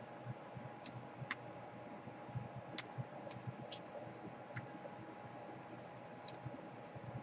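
Small tools and laptop parts clicking softly during reassembly: about seven sharp, irregularly spaced clicks over a faint steady hum.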